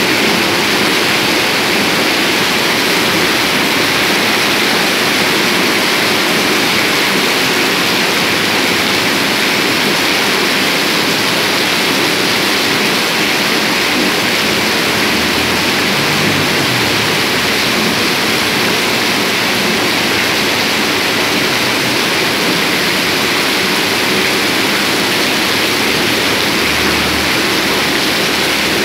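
Heavy rain pouring down, a loud, even hiss that holds steady throughout.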